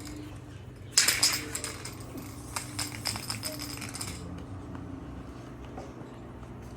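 Aerosol spray paint can spraying: a hiss with rattling clicks that starts about a second in and stops sharply about three seconds later.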